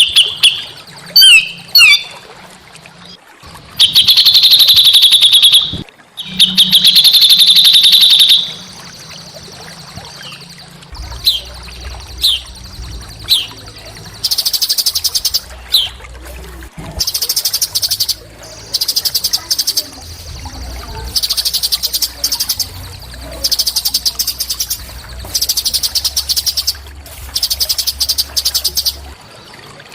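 Small songbird singing loud, fast trills, then harsh, rapid chattering phrases repeated in bursts of a second or two, with short chirps in between.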